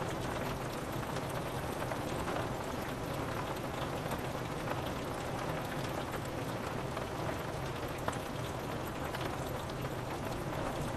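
Steady rain falling on a window pane, with scattered individual drop ticks.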